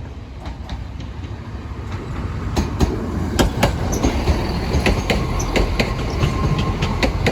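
A train approaching and growing steadily louder, its wheels clicking irregularly over the rail joints, with a thin wheel squeal rising near the end.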